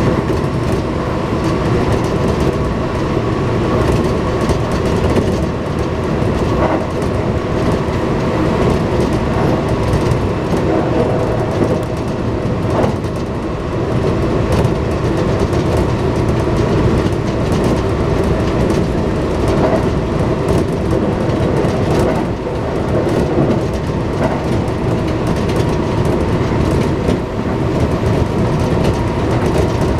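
Kintetsu commuter train car running at speed, heard from inside at the front of the car: a steady rumble of wheels on rail with a faint motor hum and a few scattered clicks from the track.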